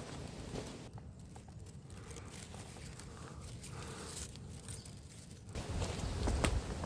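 Footsteps of a hiker walking on a forest track, with a few sharp taps. They go quieter for a few seconds in the middle, then return louder with a low rumble toward the end.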